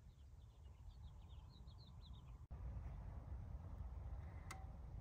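Faint bird chirping: a quick run of short, high chirps in the first two seconds. Under it is a low wind rumble on the microphone, which gets a little louder after a break about halfway through.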